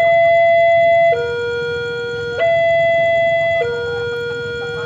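Railway level-crossing warning alarm: an electronic two-tone signal alternating between a higher and a lower tone about every 1.2 seconds, over a low rumble.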